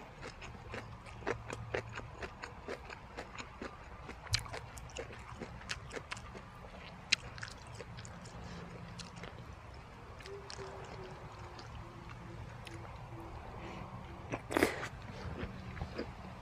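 Close-up chewing of crunchy jellyfish and beef omasum salad: many small, wet crunches and clicks, with a louder noise near the end.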